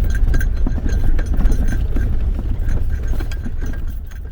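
Jeep driving slowly over a rough, bumpy road: a steady low rumble with frequent knocks and rattles from the bumps.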